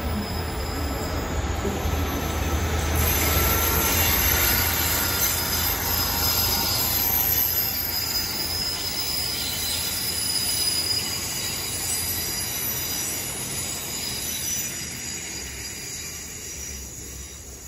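Great Western Railway Class 150 diesel multiple unit passing on curved track. Its diesel engine rumbles under a high, steady wheel squeal from the wheels rubbing on the curve. The sound is loudest about four seconds in and fades away over the last few seconds.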